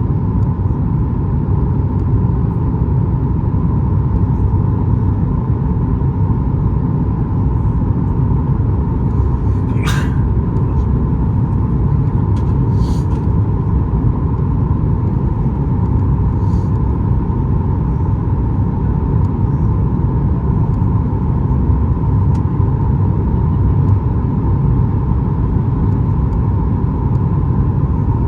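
Steady cabin noise inside a Boeing 737 MAX 8 in flight: a low rumble of airflow and its CFM LEAP-1B engines with a steady mid-pitched hum on top. A short sharp click sounds about ten seconds in, with a couple of fainter ticks a few seconds later.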